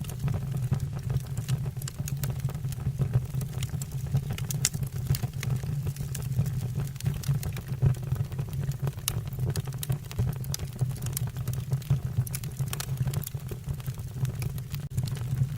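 Wood fire burning in a fireplace: frequent irregular sharp crackles and pops from the logs over a steady low rumble.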